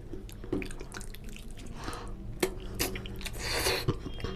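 Close-miked wet eating sounds of chewing chicken curry: moist lip smacks and sticky clicks, with a brief hissing suck about three and a half seconds in.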